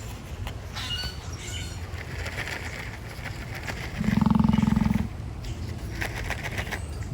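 An emu gives one loud, low, pulsing grunt lasting about a second, around four seconds in.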